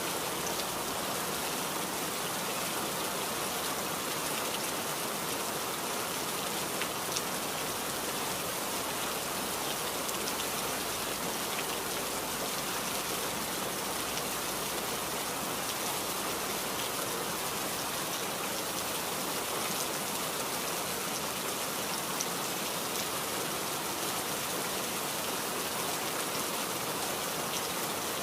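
Steady rain falling, an even hiss with the odd distinct drop ticking close by.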